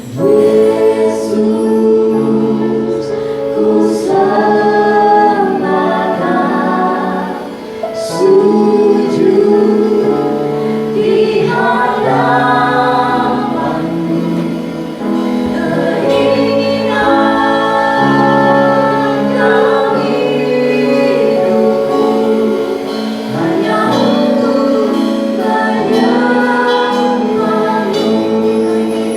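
Christian worship music: a group of singers with female voices, sung in phrases over sustained instrumental accompaniment.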